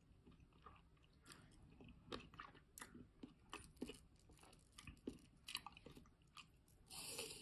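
Chewing fruit close to the microphone: a run of small crisp crunches and clicks, then a louder crunch near the end as an apple slice is bitten.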